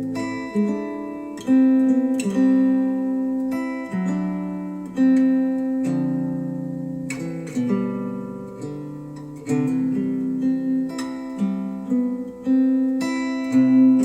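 Acoustic guitar music played back through Wharfedale Denton 80th bookshelf speakers driven by a Denon DRA800H amplifier. Plucked and strummed chords start sharply and ring out, a new one every second or so.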